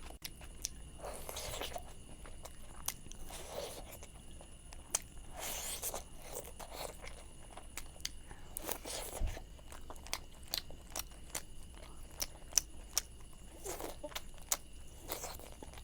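Close-miked eating of chicken leg curry: chewing and biting, with many sharp wet smacking clicks and a louder bite or slurp every second or two.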